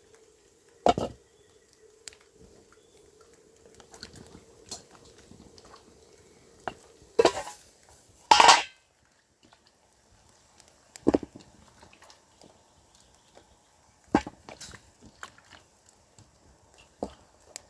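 Cooking pot and utensils clattering: about six separate clanks and knocks spread out, the two loudest close together near the middle.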